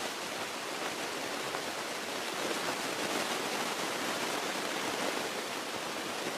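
Steady rushing cabin noise of a Beechcraft Musketeer single-engine light plane on final approach with power reduced: an even hiss of airflow and engine.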